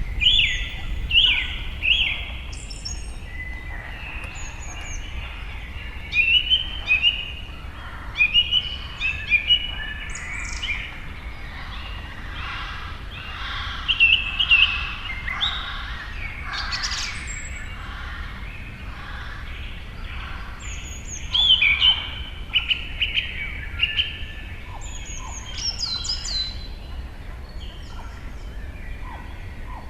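Several birds chirping and calling in a busy, overlapping chorus of short chirps and quick falling whistles, in denser bursts now and then, over a steady low hum.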